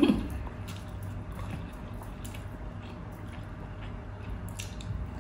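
Chewing and eating with the hands: small clicks, bites and wet mouth noises over a low steady hum. A brief loud sound comes at the very start.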